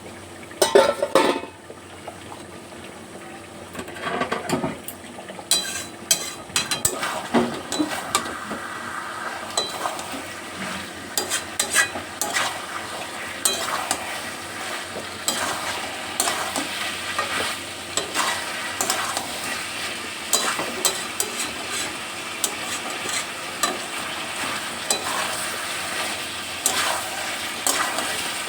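A spatula stirs chicken sautéing in a pan of hot oil and spices, scraping and knocking against the metal over a steady sizzle, with the loudest knocks about a second in. This is the bhuna stage of chicken kasha, the meat being cooked down in its masala.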